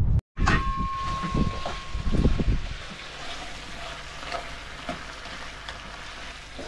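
Meat, potatoes and onions sizzling in a frying pan, with a plastic spatula stirring and scraping through them, knocking against the pan in the first couple of seconds and then quieter hissing with a low hum under it.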